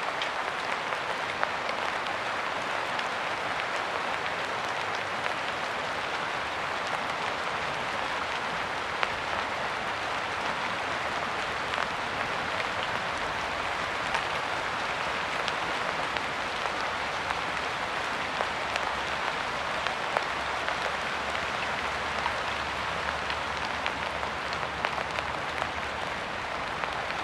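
Rain falling steadily, a dense, even patter with many sharp individual drop ticks.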